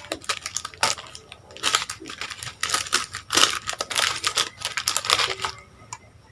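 Plastic packaging crinkling and rustling in irregular bursts as ingredient packets are handled, with small clicks. Near the end it goes quieter and a few faint musical notes come in.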